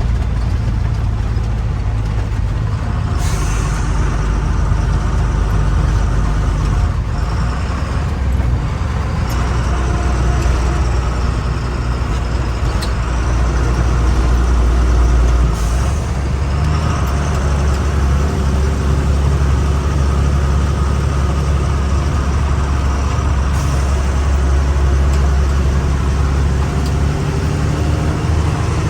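A truck engine running steadily under way, a deep rumble that shifts in pitch about a quarter and about halfway through, with a few brief hisses.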